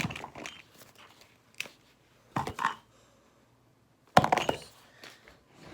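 Handling noises from small objects being picked up and moved: a few scattered clicks and rustles, then a sharp knock about four seconds in.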